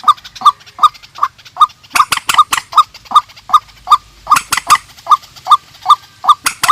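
Rail-family waterbirds calling, the trích ré (swamphen) and quốc (waterhen) of Vietnam: a long, steady run of short hollow notes, about three a second, with sharp clicking notes mixed in.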